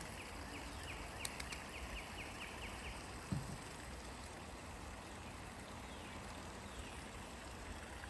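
Faint steady rush of flowing creek water, with a bird's rapid series of short, slightly falling chirps, about four a second, over the first three seconds. A couple of light clicks and a soft knock come a little after a second and about three seconds in.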